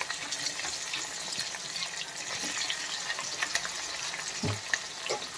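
Pieces of leftover idli frying in hot oil in a pan: a steady sizzle with a scatter of small crackles. There is a soft knock about four and a half seconds in.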